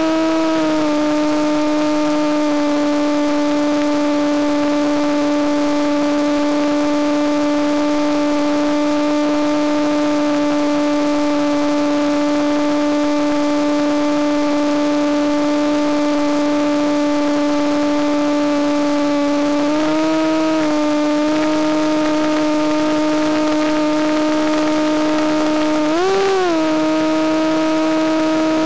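Electric motor and propeller of a Penguin FPV model plane running at a steady cruise throttle, a constant buzzing tone over wind noise. Its pitch lifts briefly about twenty seconds in and again in a short rise and fall near the end, as the throttle is nudged.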